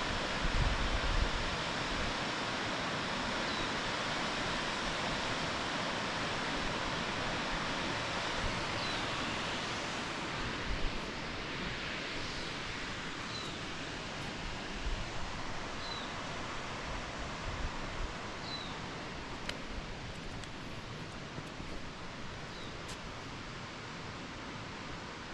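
Steady rushing of a waterfall heard through bush, easing slightly in level, with a small bird giving short high chirps every few seconds.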